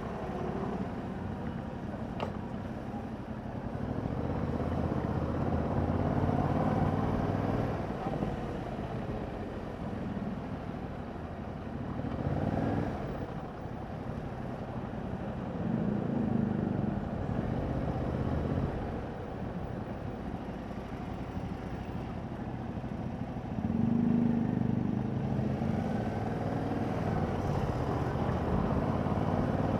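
2021 Yamaha MT-07's parallel-twin engine running through its stock exhaust while riding, the engine note swelling and easing off several times with the throttle.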